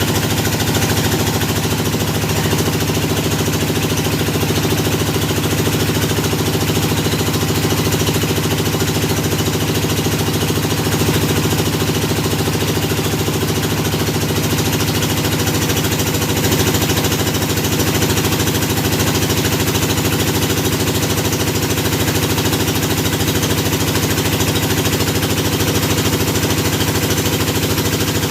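Hydraulic deep-well drilling rig running steadily, its engine holding one even pitch with a fast, regular pulsing.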